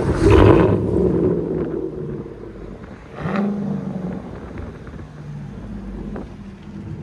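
2015 Chevy Silverado's 5.3L V8 with a true dual straight-piped exhaust, idling with a loud, deep note, with two short blips of the throttle: one at the start and one about three seconds in.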